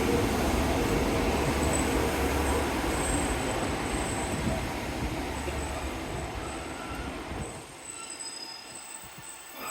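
Passenger train pulling into the platform, with a rumble and a thin, high wheel or brake squeal. The rumble dies away about three-quarters of the way through as the train comes to a stand.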